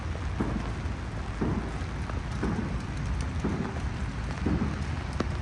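Steady rain hissing on wet pavement, with a soft splashing step about once a second and a few sharp drip ticks.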